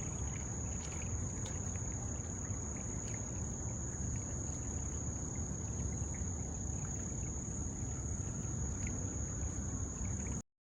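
Insects on a summer riverbank singing one steady, unbroken high-pitched tone, over a low rumble. The sound cuts off suddenly near the end.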